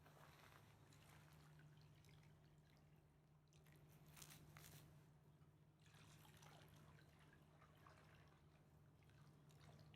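Near silence: very faint river water lapping and dripping in small scattered ticks, a little busier about four seconds in, over a steady low hum.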